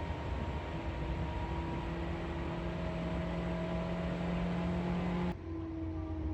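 Electric commuter train running, heard from inside the car: a steady rumble with a motor and gear whine. About five seconds in the sound changes abruptly and turns duller, and the whine then drops slightly in pitch.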